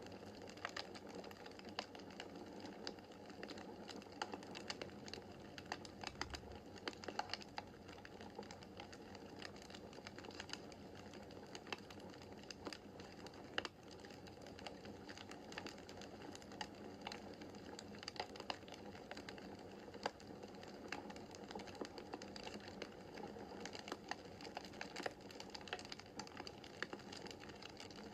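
Wood fire burning in a fireplace, crackling: many sharp, irregular pops and snaps over a steady low hiss of the flames, with one louder snap about halfway through.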